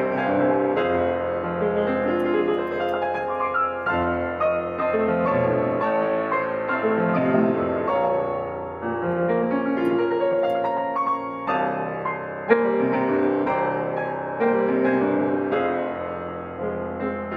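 Piano or keyboard playing a slow, ambient original piece, with sustained chords and a melody line.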